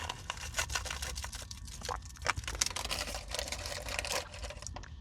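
Plastic wrapper of a Nature Valley peanut butter granola bar crinkling and crackling as it is handled and opened: a dense run of sharp clicks.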